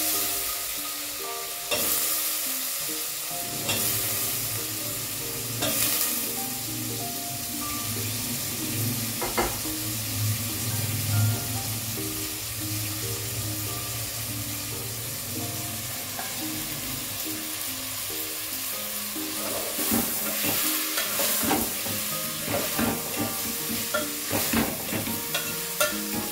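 Cubed potatoes and chopped bush beans sizzling in hot oil in an aluminium pot, stirred with a steel ladle. The ladle scrapes and clinks against the pot a few times, and more often over the last several seconds.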